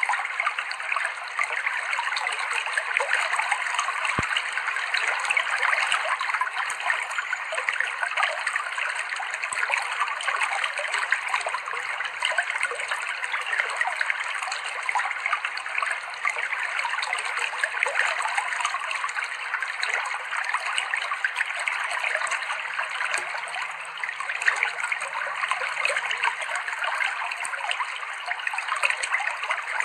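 Clear river water flowing and trickling over rocks, a steady bubbling babble.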